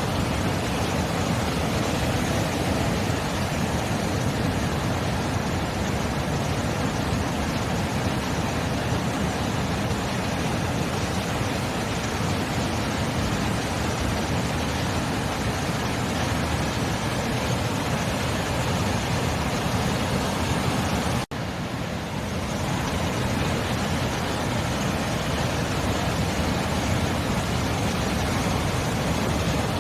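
Sea surf: a steady, continuous wash of waves, cutting out for an instant about two-thirds of the way through.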